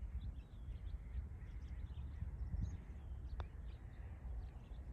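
Faint bird chirps over a low steady rumble, with a single light click about three and a half seconds in.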